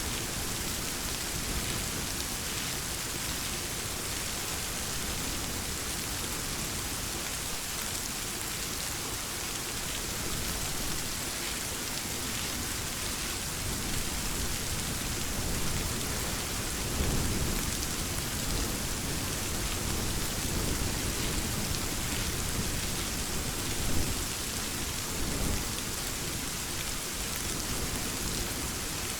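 Steady rain falling and pattering on surfaces, with a low rumble of thunder swelling through the middle and a few louder moments in the second half.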